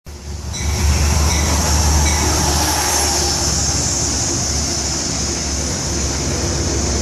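Passenger trains at a station platform: a steady low rumble with a high hiss, rising over the first second and then holding steady.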